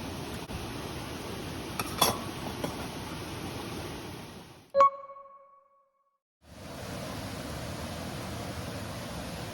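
Steady rain noise with a few light clicks, fading out and then broken by a single short, bright metallic ding. After about a second of complete silence, the rain noise comes back.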